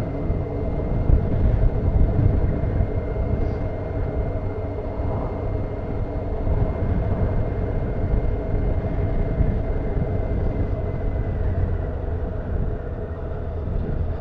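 Honda CBF motorcycle engine running at a steady pace while riding, with wind rumble on the camera microphone.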